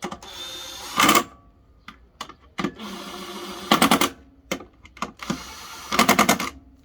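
Lawn mower air filter being handled and knocked clean in three bouts. Each bout is rustling and scraping that ends in a quick rattle of taps, about a second in, near the middle and near the end.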